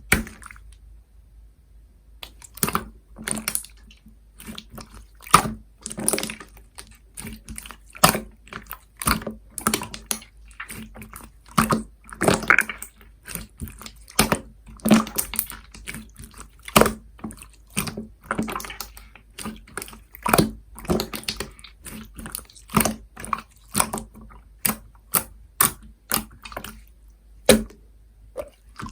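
Slime being squeezed and pressed by hand, making irregular wet clicks and pops, one or two a second, beginning after about two seconds.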